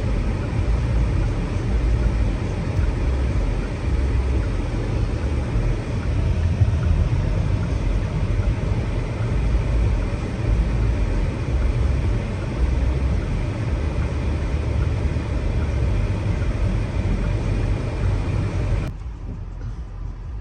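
Car in motion, heard from inside the cabin: a steady low rumble of road and engine noise with a hiss over it. Near the end the hiss drops away abruptly and the sound gets quieter.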